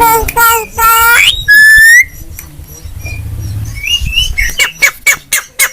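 Javan myna calling: loud harsh squawks, then a whistle that rises at its end, then a fast run of sharp clicking chatter at about five clicks a second in the second half.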